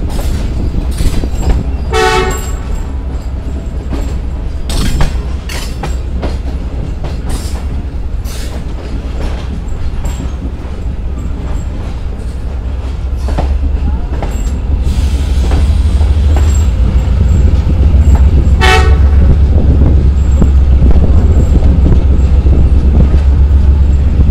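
Tezgam express passenger train running into a station, heard from the coach door: a steady low rumble of wheels with frequent clanks from the running gear, growing louder in the last third. Two short train-horn toots sound, one about two seconds in and one about three-quarters of the way through.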